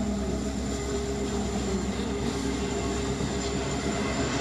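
Freight train rolling past with its distributed-power diesel locomotive going by, the engine running steadily without being throttled up as the train slows, over the continuous rumble of wheels on the rails.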